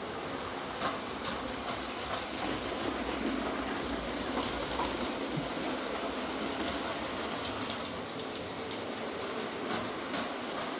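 Motorised LEGO City trains running along plastic LEGO track: a steady rolling whir with scattered sharp clicks from the wheels over the track.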